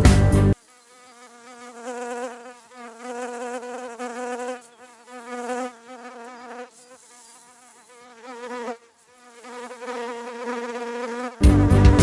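Grass trimmer running with a high, wavering buzz that dips out briefly three times.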